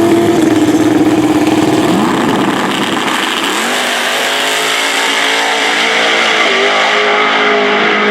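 Loud big-tire no-prep drag race car engines at full throttle during the final's pass, pitch climbing and then holding steady. The pitch dips briefly about two seconds in, then holds steady again.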